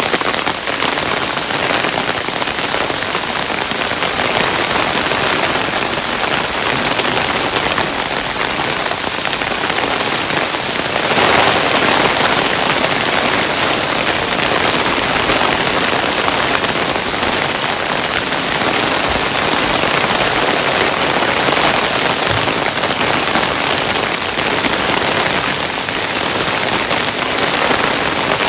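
Hailstones falling and striking a surface in a dense, steady rattle of countless small impacts, swelling a little louder about eleven seconds in.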